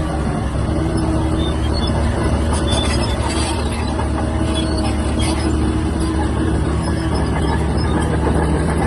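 Shantui DH17-C3 bulldozer running steadily, its diesel engine giving a low drone, with faint squeaks and clinks from the tracks.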